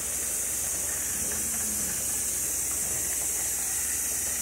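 Chicken frying in hot oil in a covered pan, a steady high sizzle that cuts off suddenly near the end.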